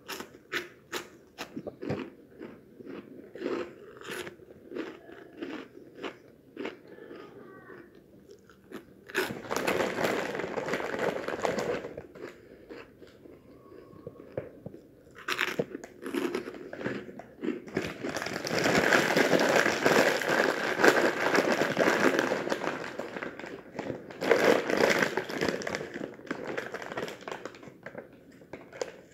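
Close-up crunching and chewing of crunchy snacks. It starts as a string of sharp separate crunches, then turns into longer stretches of dense crackling.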